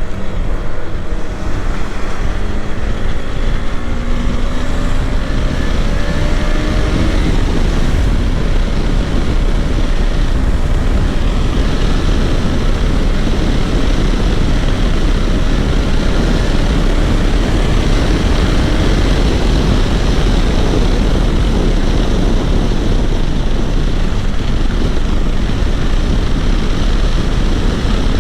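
KTM 390 Adventure's single-cylinder engine pulling under acceleration, its pitch rising over the first several seconds. A steady rush of riding wind on the microphone then covers the engine at speed.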